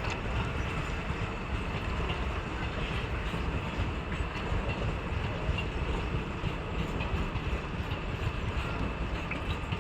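Electric-hauled express train rolling past on the track: a steady rumble of wheels on rails.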